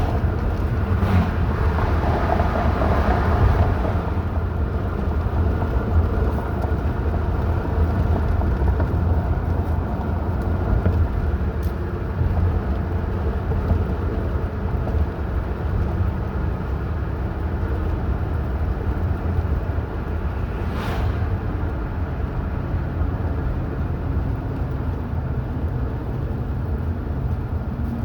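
Steady low road and engine noise of a car driving, with two brief rushing swells, one in the first few seconds and one about two-thirds of the way through.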